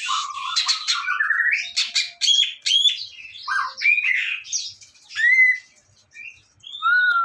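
Songbird singing a rapid, varied string of whistled notes, chirps and rising sweeps, with a brief pause about six seconds in. It is a masteran recording of mixed bird song used to train caged songbirds.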